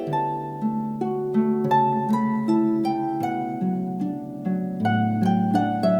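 Harp music: a melody of plucked notes, several a second, ringing over lower held notes.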